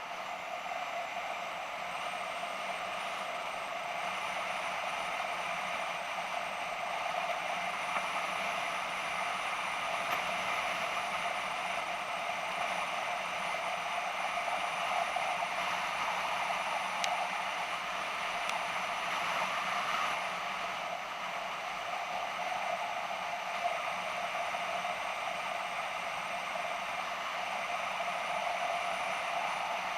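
BMW F650GS motorcycle under way: a steady, muffled drone of engine and wind noise that barely changes.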